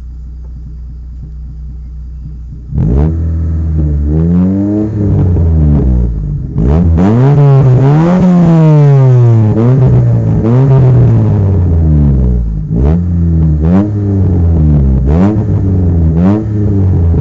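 Rover 213 SE's 1.3-litre four-cylinder petrol engine idling, then revved again and again from about three seconds in. First come short blips, then one longer rev held for a few seconds, then a run of quick blips. The car has an exhaust leak.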